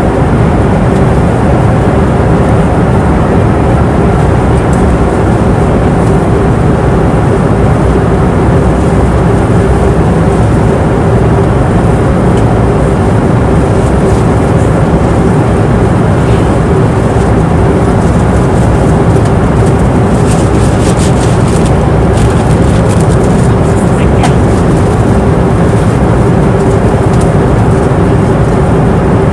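Airliner cabin noise in flight: a loud, steady rumble of engines and airflow, with a constant hum tone running through it. A few faint ticks come about two-thirds of the way through.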